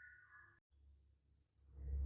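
Near silence between birdsong passages, with a low hum coming in near the end.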